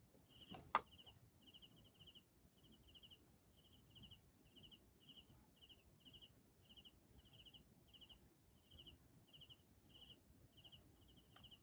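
Faint insect chirping, repeating evenly at about two chirps a second, with one sharp click about a second in.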